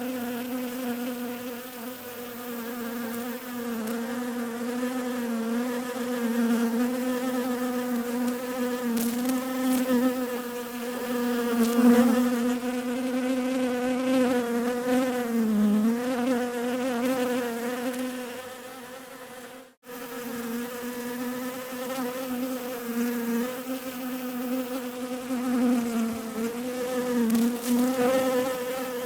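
Bees buzzing steadily with a low hum whose pitch wavers slightly up and down. The buzz fades a little and cuts out suddenly for a moment about two-thirds of the way through, then resumes.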